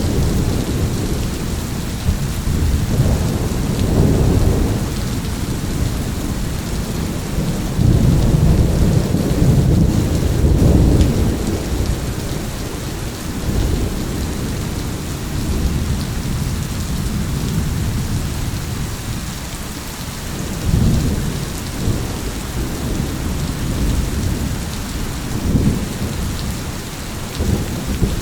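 Thunderstorm: steady rain falling with rolling thunder rumbles that swell and fade several times, strongest about 8 to 11 seconds in.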